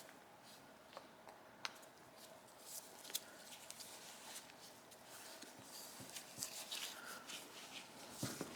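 Faint, scattered clicks and light taps of small carburetor parts and hand tools being handled on a workbench.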